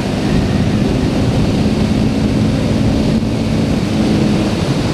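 Single-cylinder engine of a Honda CBR300R motorcycle running at a steady speed under heavy wind rush on the microphone while riding; the steady engine note breaks off about four and a half seconds in.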